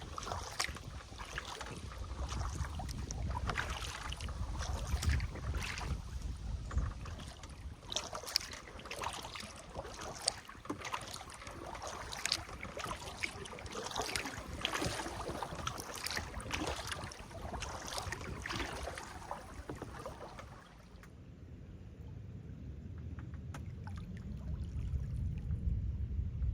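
Kayak paddle strokes: water splashing and dripping off the paddle blades, with a low wind rumble on the microphone. About 21 seconds in the splashing stops suddenly, leaving only the low rumble, which grows louder near the end.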